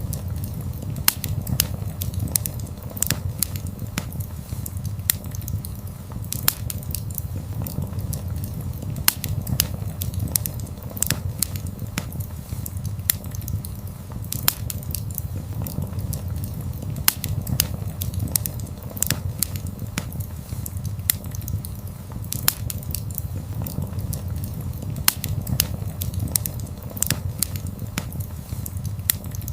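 Wood fire burning: irregular sharp crackles and pops, several a second, over a steady low rumble of flame.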